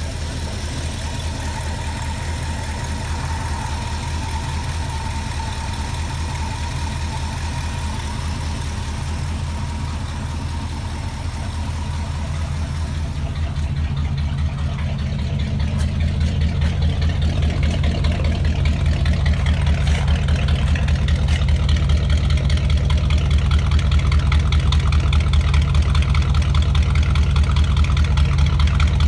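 1968 Ford 390 FE V8 idling steadily shortly after a cold start. It gets a little louder about halfway through.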